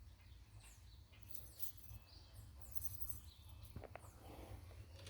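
Faint background bird chirping, with a couple of small clicks about three-quarters of the way through.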